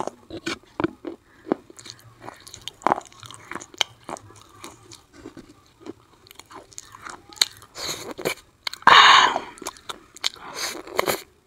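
Close-miked crunching and chewing of a chalky slate-pencil mouthful, with many short, crisp crunches and two longer, louder crunching bites in the last few seconds.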